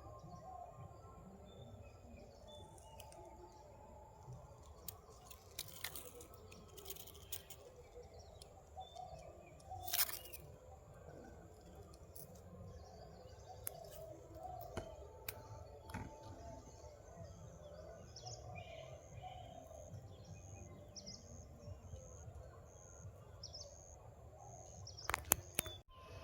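Forest birds chirping faintly, over a steady low rumble, with a few sharp clicks scattered through: the loudest about ten seconds in and a quick cluster near the end.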